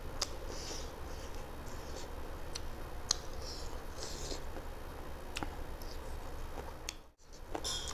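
Close-miked eating sounds as rice and chicken curry are eaten by hand: wet chewing and mouth noises with scattered sharp clicks and lip smacks, over a steady low hum. The sound drops out briefly near the end.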